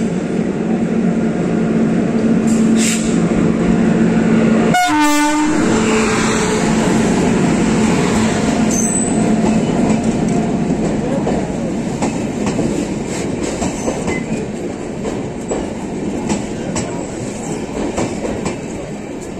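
Electric locomotive's horn sounding steadily for about five seconds as the express pulls in, then the passenger coaches rolling past close by, wheels clacking over the rail joints.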